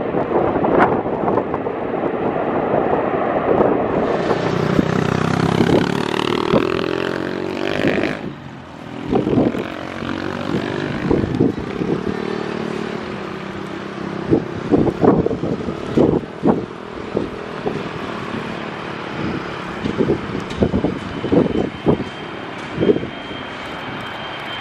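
Outdoor engine noise with many short knocks and gusts on the microphone. A thin, steady high whine of an approaching aircraft's engines comes in over the last few seconds.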